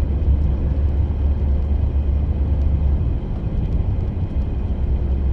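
Steady low road and engine rumble inside a moving van's cabin while driving.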